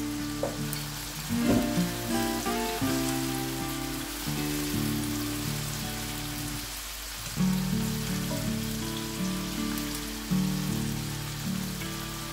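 Onions, tomatoes and hot peppers sizzling in oil in a frying pan, a steady crackling hiss, under background instrumental music whose notes step from one pitch to the next.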